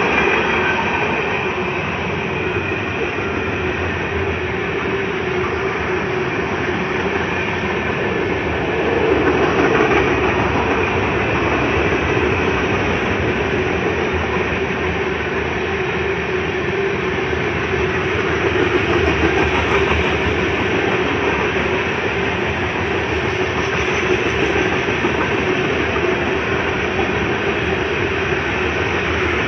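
Freight cars of a manifest train rolling past at speed: a steady rumble of steel wheels on rail with wheel and coupler rattle.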